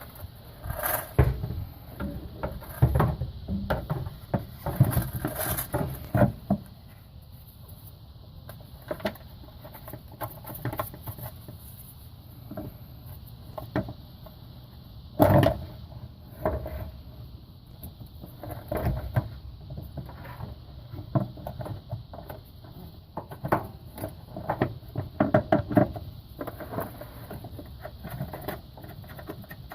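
Hands handling a car's plastic EVAP charcoal canister and its hose connectors: irregular clunks, taps and rattles, with one louder knock about halfway through.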